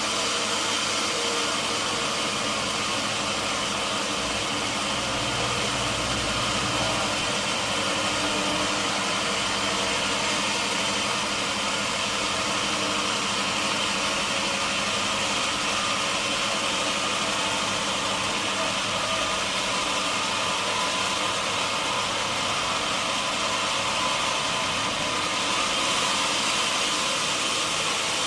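Sawmill machinery running steadily: an even mechanical drone with a constant high whine, unchanged throughout.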